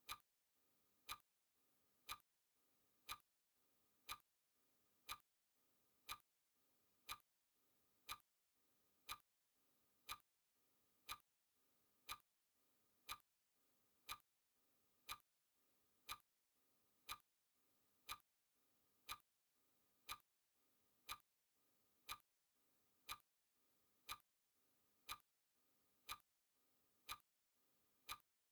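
Clock-style ticking sound effect of a countdown timer: one quiet, sharp tick every second, evenly spaced.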